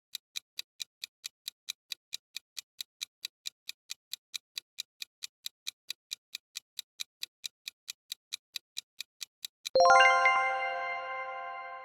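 Countdown-timer sound effect: a clock ticking evenly at about four ticks a second, ending just before the last two seconds in a bell-like chime that rings on and slowly fades.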